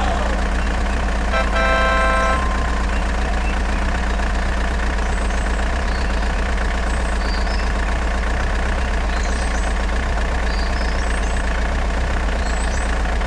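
Vehicle engine running at a steady, even drone. About a second and a half in comes a brief horn-like tone, and faint bird chirps sound later.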